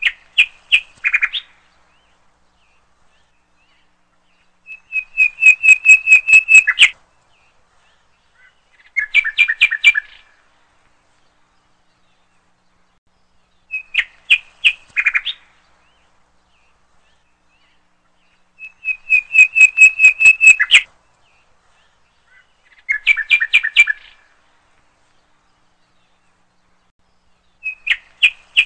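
Bird chirping laid on as a looped sound effect. Each pass has a short burst of chirps, then a longer rapid trill, then another chirp burst, with dead silence between; the pattern repeats about every 14 seconds.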